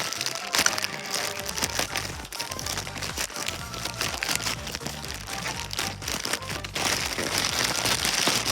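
Background music, over packaging being crinkled and torn open by hand as a package is unwrapped.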